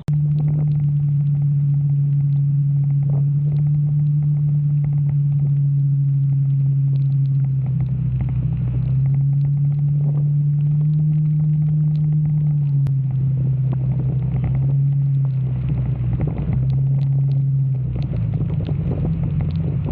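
Motorcycle engine running at a steady riding speed, its low hum stepping up and down in pitch a few times as the throttle changes, over a steady rushing noise. The sound comes in abruptly at the start.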